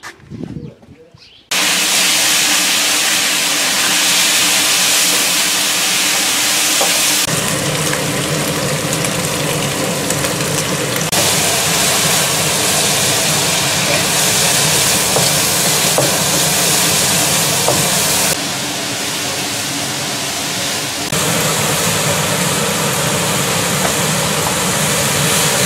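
Hot oil sizzling steadily in a wok as shredded pork, then celery, is stir-fried with a wooden spatula. The sizzle starts suddenly about a second and a half in.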